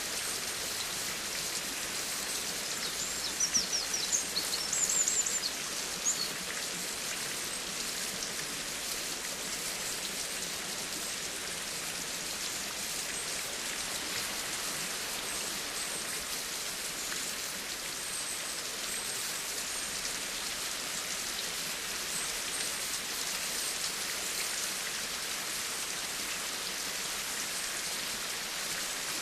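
Steady rain falling and pattering on surfaces, an even hiss. About three to six seconds in, a bird gives a quick series of high chirps over the rain.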